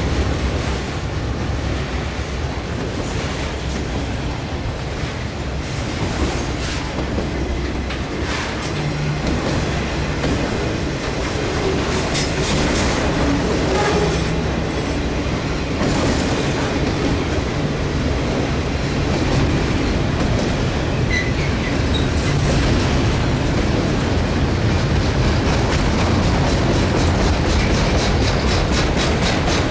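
Long freight train of autorack cars rolling past at close range: a steady rumble of steel wheels on rail, with a quick clickety-clack over the rail joints that becomes more even and regular in the last few seconds.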